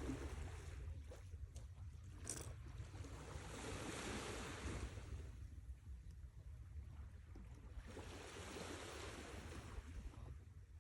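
Sea waves washing onto the shore, the surge swelling and fading twice, over a low steady rumble.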